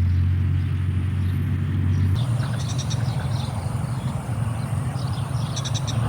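Steady low rumble, with runs of quick, high-pitched chirps from small animals starting about two and a half seconds in and recurring near the end.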